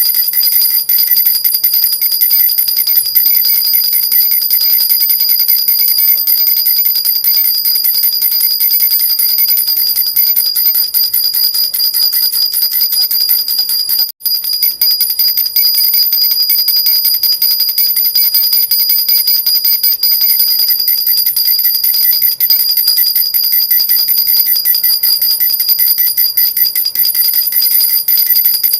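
A jhunjhuna baby rattle shaken steadily and quickly: a dense, continuous jingling with high ringing tones. It breaks off for a split second about halfway through.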